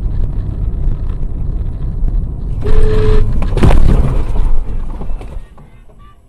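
Dashcam recording of a moving car: steady low road rumble, a short beep or horn note nearly three seconds in, then a loud crash impact about a second later, with the noise dying away near the end.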